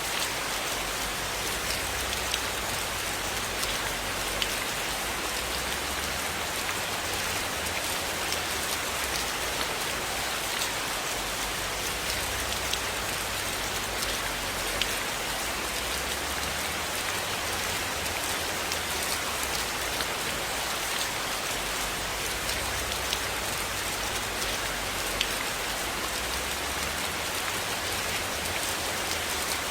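Steady rain falling, a constant even hiss with scattered sharp ticks.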